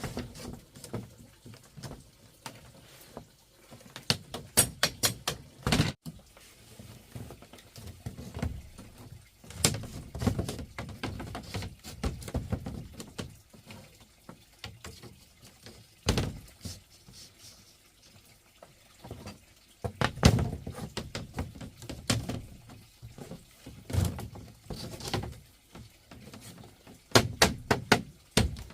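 Irregular knocks and clacks of hard objects being handled, with a few quick runs of rapid taps.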